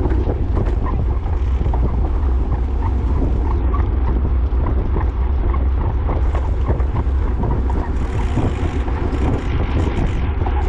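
Wind buffeting the microphone of a camera moving at bike-racing speed in the rain: a steady low rumble with many small scattered clicks.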